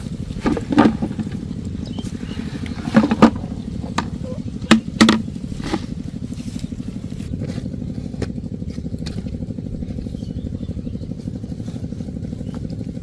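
A small engine running steadily, with several sharp knocks and clatters in the first half.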